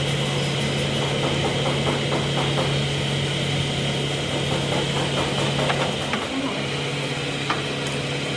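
A machine running with a steady hum, with a few short clicks and taps over it.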